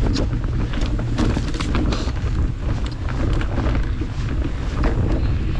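Wind buffeting the microphone of a mountain bike moving fast down a trail, with a steady rumble and many sharp clicks and rattles from the bike over rough ground.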